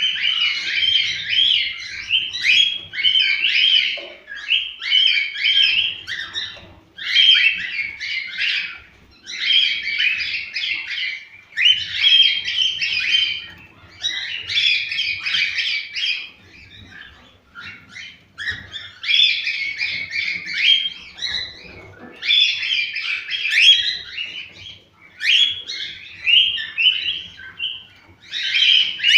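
Cockatiels singing: phrases of quick, warbling chirps one to two seconds long, repeated with short pauses between them. This is the song used to stimulate cockatiels to breed.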